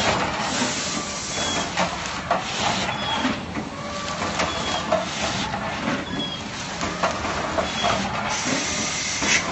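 Snack bag packaging machine running, a dense mechanical clatter with hiss and clicks, going through a repeating cycle about every second and a half, each marked by a short high tone.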